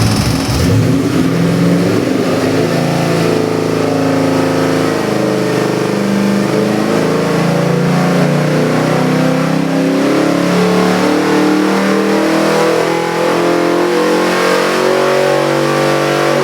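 Ford 408 cubic-inch Windsor stroker V8 with multi-port fuel injection under load on an engine dyno, pitch climbing slowly and steadily as it pulls up through the rev range.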